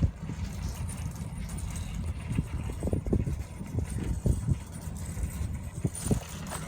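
Irregular footsteps and camera-handling knocks on pavement over a steady low rumble of wind on the microphone.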